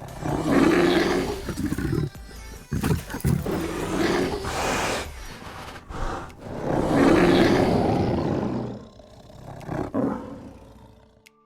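Big cat roaring, four rough, drawn-out roars, the last one shorter, fading away near the end.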